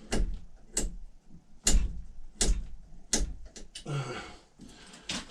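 A series of sharp knocks, about six, coming roughly one every three-quarters of a second, as the top of an axe handle and its wedge are being cut off and trimmed by hand.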